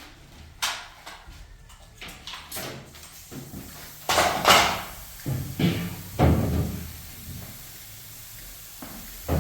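A series of irregular knocks and clunks, as of hard objects being handled and set down, loudest about four and a half seconds in, with a quieter stretch near the end.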